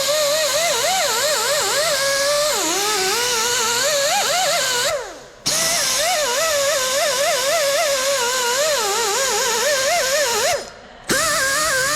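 Air-powered wire wheel whining at high speed as it scrubs rust off a wheel hub, its pitch wavering and sagging as it is pressed into the metal. It is released and spins down twice, about five seconds in and again near the end, each time starting straight back up.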